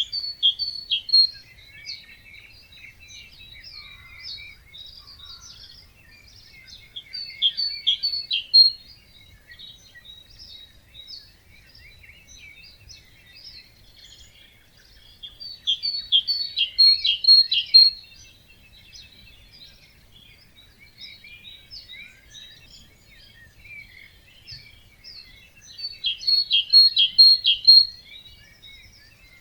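Birds singing in a dawn chorus. One bird repeats a loud song of quick, high, falling notes about every nine seconds, four times in all, and fainter chirps from other birds fill the gaps between.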